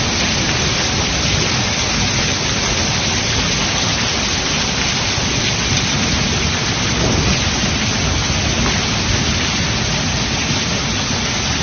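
Heavy storm downpour of rain and hail falling hard on surfaces, a loud, dense, steady hiss with a deep low rumble underneath.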